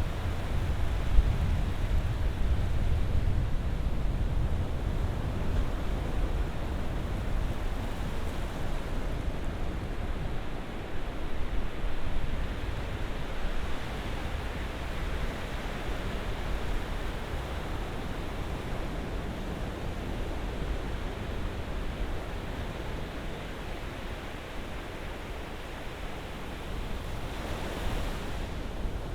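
Ocean surf breaking steadily, a continuous wash with a deep rumble that swells and eases as waves come in. A brief thump sounds about a second in.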